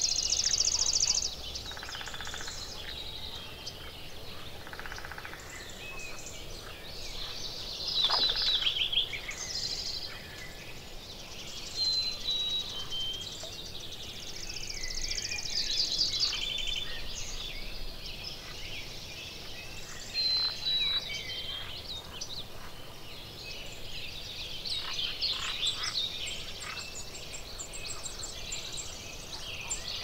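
A chorus of songbirds singing and calling over one another, with fast trills, short whistled notes and chirps throughout.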